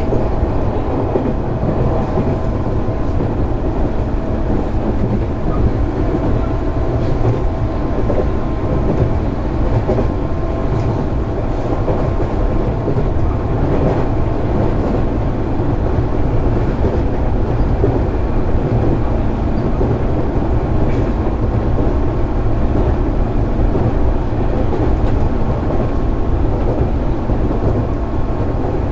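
Running noise of a JR 205 series 600-subseries electric train heard from on board, at a steady speed: an even rumble of wheels on rail with a faint steady hum.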